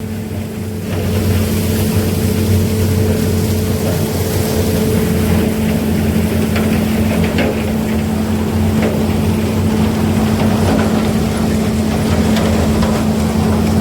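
Heavy diesel farm-machinery engine running steadily at constant speed, with a few light knocks in the middle.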